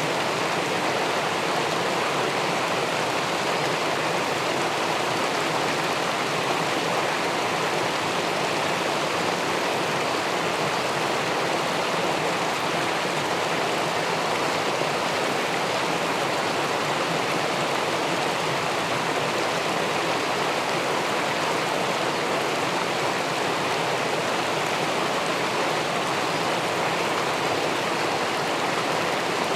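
River water spilling over a small weir into the pool below, a steady, even rushing.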